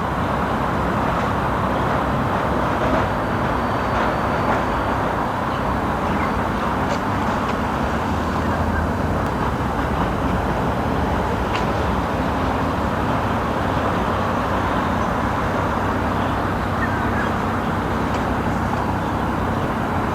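Steady outdoor background noise with a traffic-like hum and no distinct events.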